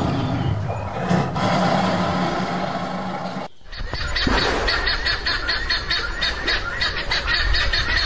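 A lion's low, drawn-out vocalization, which cuts off abruptly about three and a half seconds in. A small bird's rapid chirping follows: quick, evenly repeated high notes, several a second.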